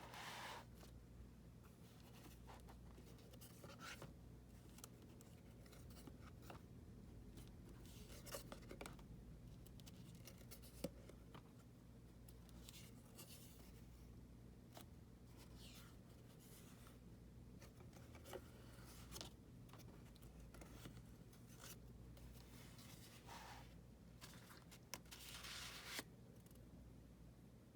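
Faint handling of a paper-craft folio: cardstock flaps and card inserts rustling and sliding, with scattered light clicks and taps, over a low steady hum.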